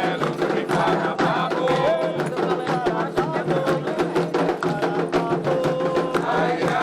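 Voices singing a Candomblé chant to the orixá Ayrá over drumming and struck percussion.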